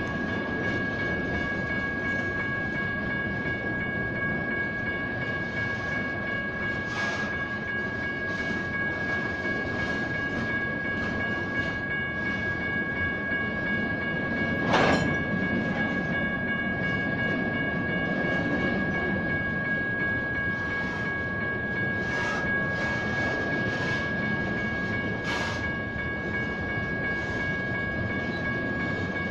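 Freight train rolling steadily through a grade crossing, wheels clicking over rail joints now and then, while the crossing's General Signals Type 1 electronic bells keep ringing with a steady high tone.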